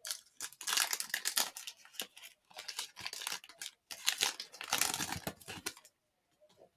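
A plastic trading-card pack wrapper being torn open and crinkled by hand: a run of quick, dense crackles that stops about a second before the end.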